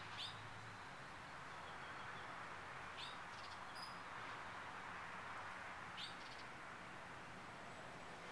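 A bird giving short high chirps about every three seconds, faint over a steady background hiss.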